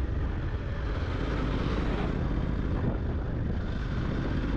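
Steady wind and road noise from a Yamaha FZ-X motorcycle under way: wind rushing over the microphone, with the bike's running noise underneath.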